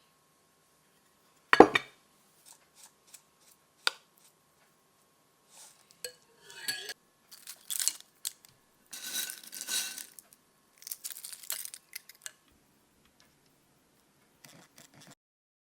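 Dishes and cutlery being handled: one sharp knock about a second and a half in, a few light clicks, then clattering and scraping through the middle, and a faint rustle near the end.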